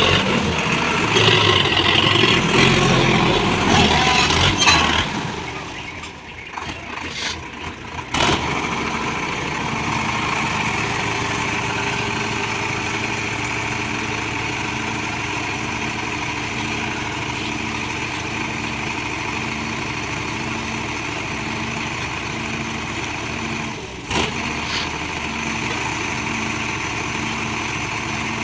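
Diesel engine of heavy earth-moving machinery running hard for about five seconds, then dropping away. From about eight seconds in it runs steadily at idle with an even low pulsing, broken by a brief dip and a knock near the end.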